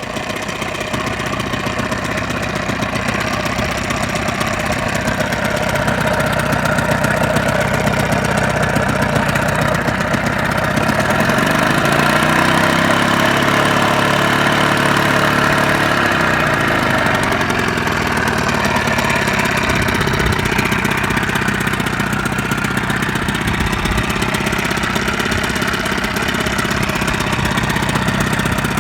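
1980s Johnson 15 hp two-stroke outboard motor running steadily; a little past ten seconds in its speed rises, holds for about four seconds, then drops back.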